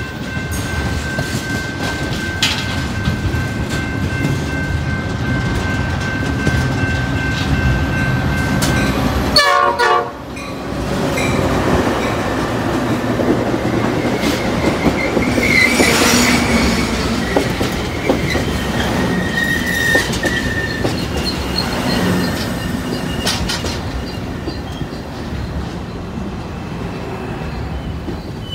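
Passing trains. First a BNSF intermodal freight of container and trailer cars rolls by with a steady wheel squeal. After a short break about ten seconds in, Metra bilevel commuter cars roll past with clickety-clack over the rail joints and a couple of brief wheel squeals.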